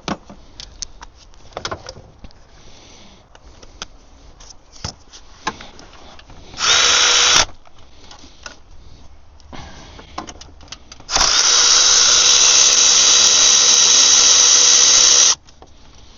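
Light clicks and taps of tools, then a cordless power tool with a 13 mm socket spinning a bolt out: a short run of about a second, then a longer steady run of about four seconds that stops sharply.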